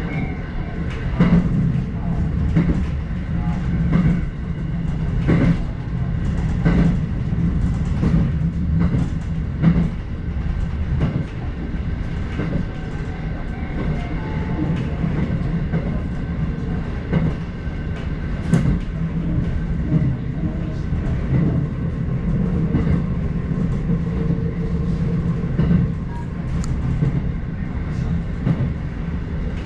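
Electric passenger train running at speed, heard from inside the front car: a steady low rumble with wheels clicking over rail joints about once a second.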